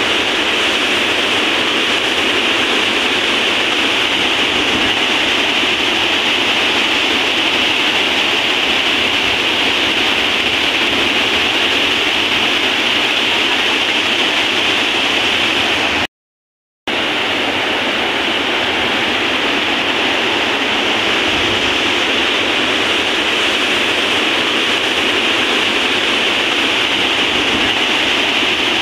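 Waterfall rushing, a loud, steady roar of falling water. The sound cuts out completely for under a second about sixteen seconds in, then resumes unchanged.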